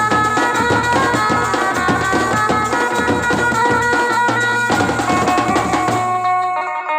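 Loud traditional wedding band music: a held, wind-like melody over fast, dense drumming. The drumming stops about six seconds in, leaving the melody notes ringing on and beginning to fade.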